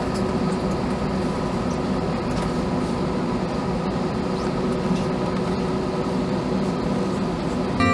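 Steady cabin noise inside an Airbus A321 on the ground before takeoff: a constant hum with a few steady tones over a rushing air hiss, from the engines and cabin air system.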